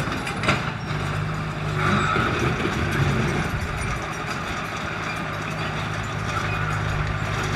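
Engine of a heavy earthmoving machine, such as a bulldozer, running steadily under work, with a single short knock about half a second in.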